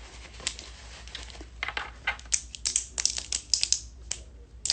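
Fingernails tapping on a phone's touchscreen: quick, irregular clicks, growing thick from about a second and a half in.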